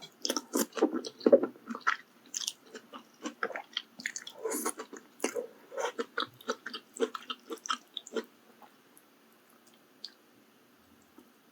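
Close-miked chewing of malatang (spicy Chinese hot pot), a quick run of wet clicking mouth sounds and bites that stops about eight seconds in.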